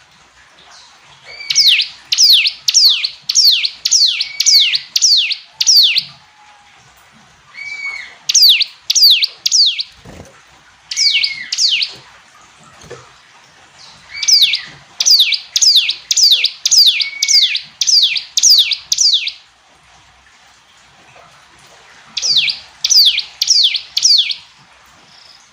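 Ciblek gunung (a mountain prinia) singing: bouts of loud, sharp notes that each sweep downward in pitch, about two notes a second. Some bouts open with a short lower note. The bouts are separated by pauses of one to three seconds.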